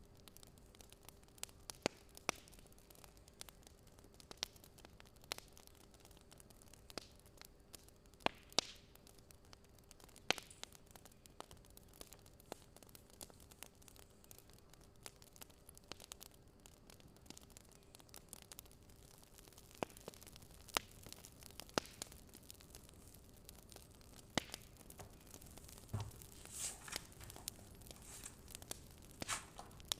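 Faint fire crackling: irregular sharp pops and snaps, coming thicker near the end, over a faint steady hum.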